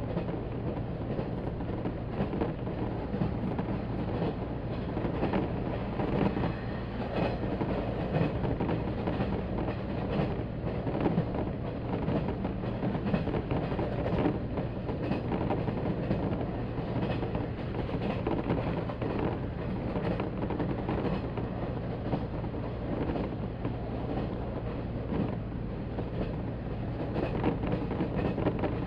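JR 185 series electric train running along the track: a steady rumble of wheels on rail, with faint irregular clicks.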